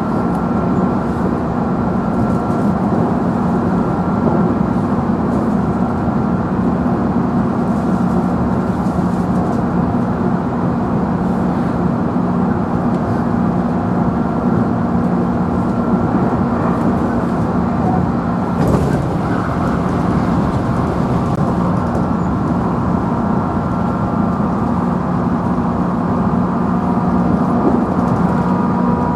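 Running noise of a JR Central 311 series electric train heard inside the motor car's cabin: a steady hum from the traction motors over wheel and rail noise, at an even speed. One brief sharp knock about two-thirds of the way through.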